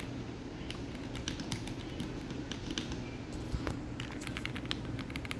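Typing on a mechanical keyboard fitted with milky yellow linear switches: a quick, irregular run of keystrokes, very muted.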